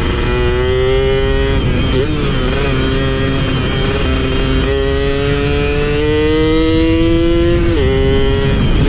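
Two-stroke motorcycle engine pulling under load, its pitch climbing steadily, with two gear changes where it drops sharply: about two seconds in and near the end. A low rushing noise runs underneath.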